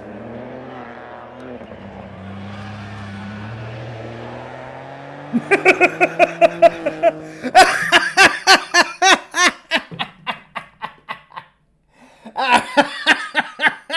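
A rally car's engine running, its pitch wavering, then about five seconds in a man breaks into hard laughter in rapid bouts. The laughter fades, stops briefly near the end, then starts again.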